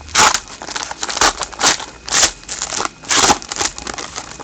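Plastic trading card pack wrapper being torn open and crinkled by hand: a run of sharp crackling rustles, the loudest just after the start and around two and three seconds in.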